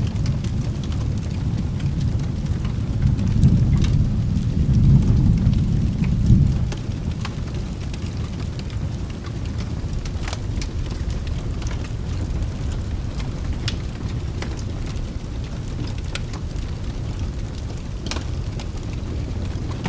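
A low roll of thunder that swells and then dies away about six seconds in, over steady rain. Scattered sharp crackles and pops from a wood fire run throughout.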